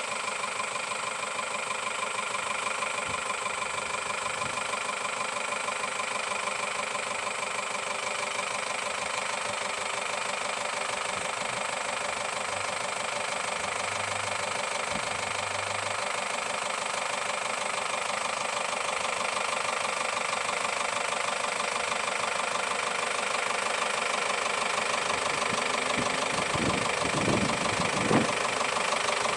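Vehicle engine idling steadily, with a light rhythmic knock; a few short thumps near the end.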